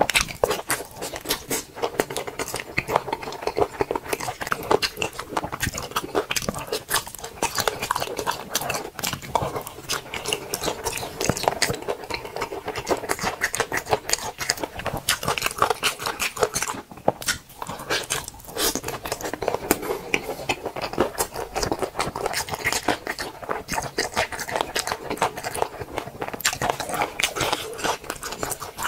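A person chewing and smacking on spicy boneless chicken feet, whose soft cartilage makes them chewy. It is a steady run of small mouth clicks, with two brief lulls past the middle.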